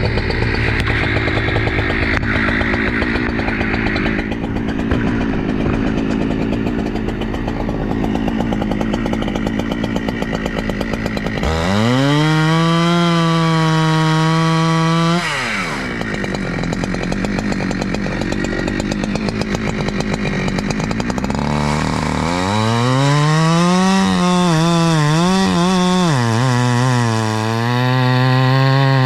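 Two-stroke chainsaw bucking logs. It runs low and uneven for about the first ten seconds, is throttled up sharply to a high steady whine for a few seconds, drops back, then revs up again about two-thirds through. In that last run the pitch dips and recovers repeatedly as the chain bogs in the cut.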